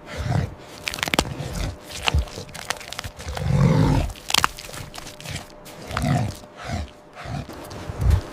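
An animal's low grunts several times, the loudest about three and a half seconds in, with crunching and crackling between them.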